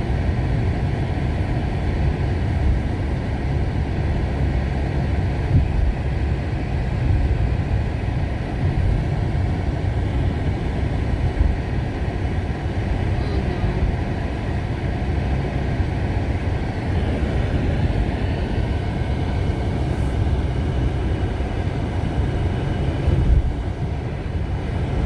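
Steady low rumble of a small car driving, heard from inside the cabin: road, tyre and engine noise.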